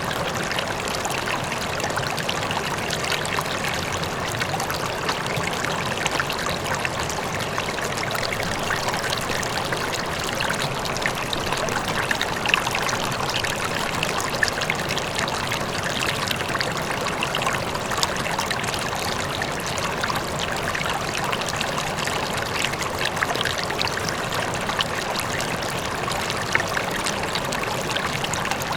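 River water flowing steadily, with close babbling and splashing over a constant rush; the title places a faint waterfall in that rush.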